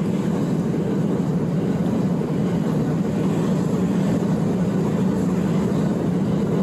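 Electric passenger train running past at speed, a steady rumble of wheels on rails with no break or change.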